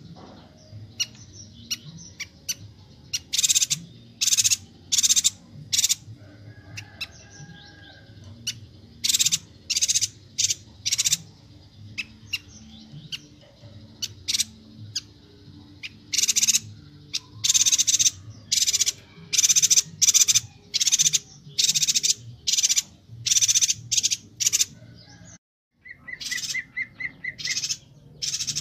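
Chestnut-crested yuhina (Bornean yuhina) calling: short, sharp, high chirps repeated in quick, irregular succession. Near the end there is a brief break, then a rapid run of lower pips.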